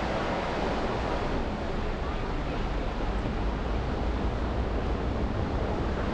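Steady road and traffic noise from a car driving city streets after a snowstorm, an even rushing hiss of tyres on wet pavement over a low rumble.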